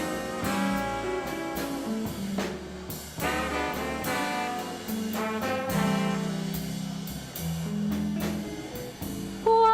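Swing band playing an instrumental introduction: a horn section of trumpet, trombone and saxophones plays held chords over upright bass and drums.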